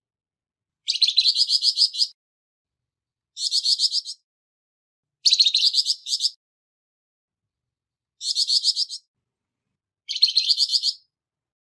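Flamboyan songbird giving harsh, rapid rattling calls in five separate bursts of about a second each, with short pauses between them.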